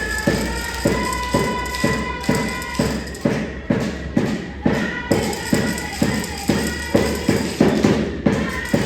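A drum beaten in a steady rhythm, about two to three beats a second, with a sustained high tone held over the beats.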